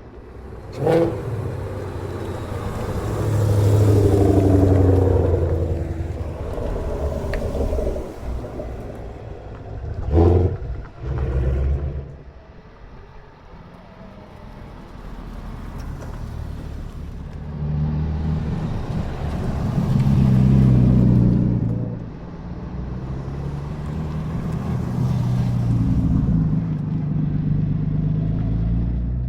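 Several cars driving slowly past one after another, each engine swelling and fading as it goes by, with a couple of sharp knocks about a second and ten seconds in.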